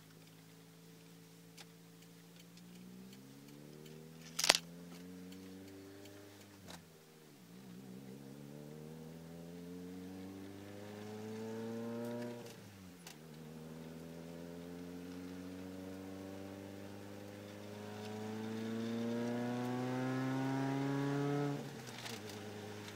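1988 Toyota MR2 supercharged's 1.6-litre four-cylinder engine accelerating through the gears, through an SRT-4 exhaust with resonators and a catalytic converter but no mufflers. The engine note rises in pitch three times, dropping at shifts about 7 and 13 seconds in, and falls away near the end. A sharp click about four and a half seconds in is the loudest single sound.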